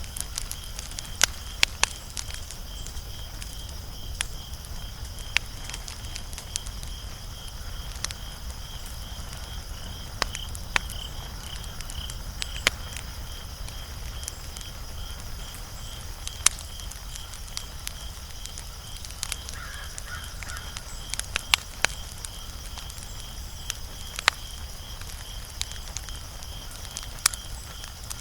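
Wood fire crackling, with irregular sharp pops a second or two apart and a small cluster about three quarters of the way in, over a low steady hiss of burning. A steady high pulsing trill runs underneath.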